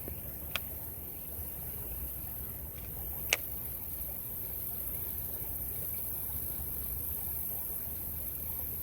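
Steady creek ambience: running water with a constant high insect drone. Two sharp clicks cut through it, a small one about half a second in and a louder one a little past three seconds.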